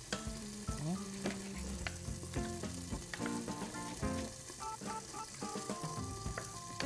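Diced potatoes, leeks, celery, mushrooms and garlic sizzling in olive oil in a stainless steel pot while being stirred with a wooden spoon, with scattered light knocks of the spoon against the pot.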